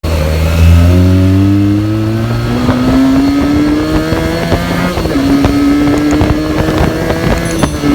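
Benelli TNT 300's parallel-twin engine on its stock exhaust, pulling up through the revs, stepping down with an upshift about five seconds in, then pulling again.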